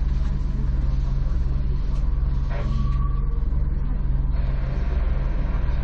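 Steady low hum of an Enoshima Electric Railway (Enoden) train, heard from inside the car.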